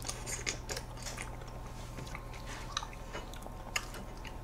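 Close-miked eating sounds of soft ice cream cake being chewed: scattered small wet smacks and clicks of lips and mouth, a few each second, over a low steady room hum.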